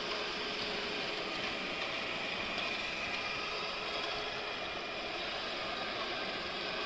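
Yeedi M12 PRO+ robot vacuum running: a steady whirring hiss from its suction motor and brushes, with no change in level.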